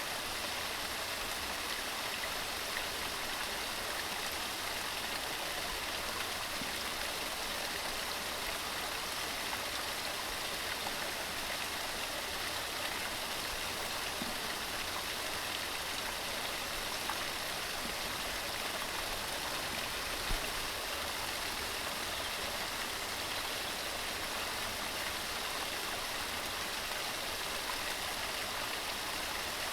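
Waterfall cascading over rocks: a steady, even rush of falling water that does not change. There is one brief low thud about two-thirds of the way in.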